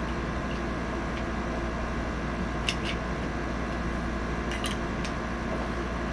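A few light, sharp clicks in small clusters: a pair, then about two seconds later a pair and a single. They come from a Glock-style BB pistol and small tools being handled while its sights are worked on. Under them runs a steady fan-like hum.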